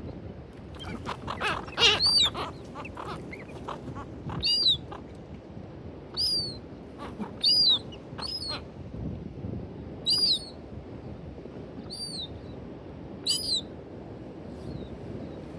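Birds calling: a burst of loud overlapping calls about two seconds in, then single short, high calls every second or two.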